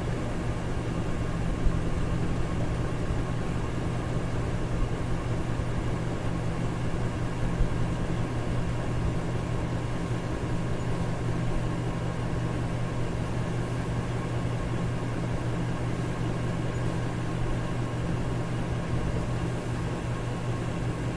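Electric fan running steadily: an even rush of air over a low motor hum, with a faint steady whine higher up.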